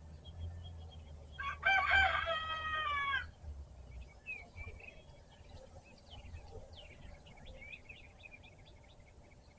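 A rooster crows once, a loud call of about a second and a half starting about one and a half seconds in. Small birds chirp and sing afterwards over a low background rumble.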